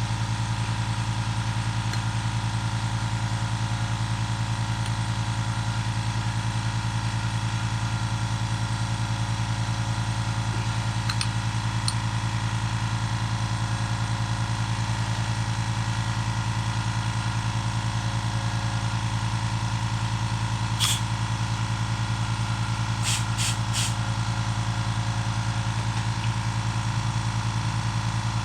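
A steady machine hum, low and even, with a few light clicks: a short pair about a third of the way in, a sharper one about two-thirds in, and three quick ones soon after.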